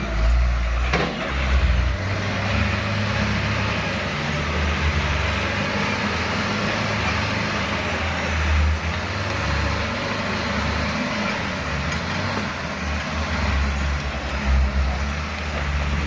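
Heavy diesel truck engine running, its low note rising and falling as it works, with a sharp knock about a second in.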